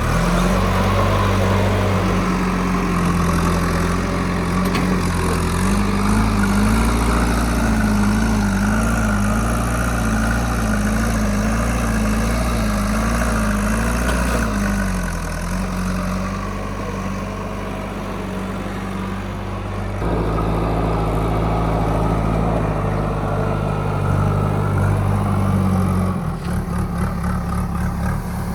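Diesel engine of a JCB 3DX backhoe loader running steadily as it works, its pitch wavering up and down for several seconds in the middle before settling again.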